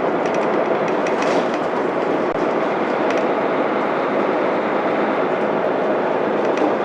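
Cabin noise of a Mitsubishi Fuso Aerostar city bus under way: its 6M70 straight-six diesel running steadily under the road and tyre noise, with faint light rattles from the body now and then.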